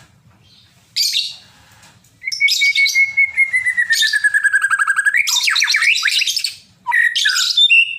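White-rumped shama (murai batu) singing a loud, varied song of the heated 'emosi' kind that keepers play to fire up other shamas. There is a short burst, then a long phrase: a clear whistle slides slowly downward while rapid trills run over it, and a run of quick falling notes follows. A last short burst comes near the end.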